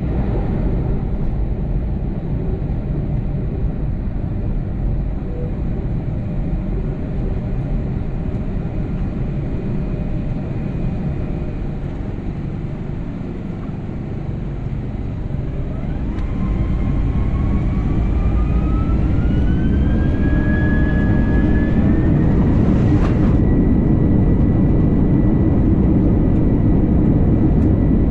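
Airbus A321 jet engines with a steady low rumble, then spooling up for the takeoff roll about halfway through: a whine rises in pitch and levels off high as the rumble grows louder. A single short knock comes shortly after the whine levels off.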